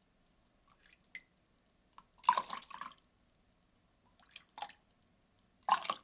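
Water poured in a few short spurts, splashing and dripping, with quiet gaps between them; the loudest spurt comes about two seconds in.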